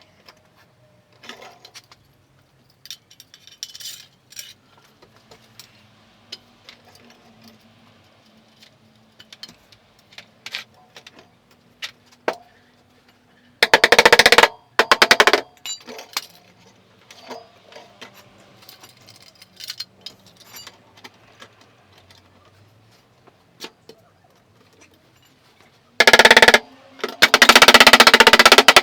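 Spotter stud welder working the car's body panel: loud crackling buzzes of half a second to two seconds, two in the middle and two near the end. Light metallic taps and clicks come in between.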